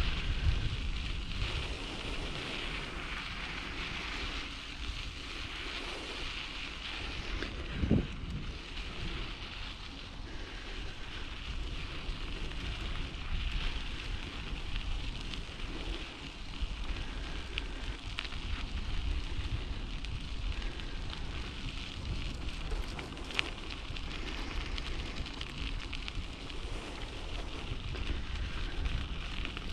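Wind buffeting the microphone of a bicycle-mounted camera while riding, over a steady crackling hiss of tyres rolling on a rough track. A single bump about eight seconds in.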